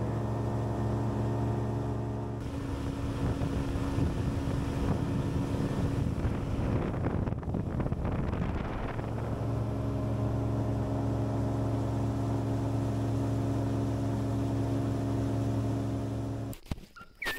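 Boat outboard motor running steadily as the boat travels up the creek, with a noisier, rushing stretch in the middle, then shutting off near the end.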